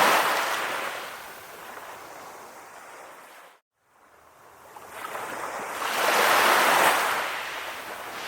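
Ocean waves washing onto a shore: one wash fading away, then after a brief cut to silence about three and a half seconds in, the next wave swells up, peaks and recedes.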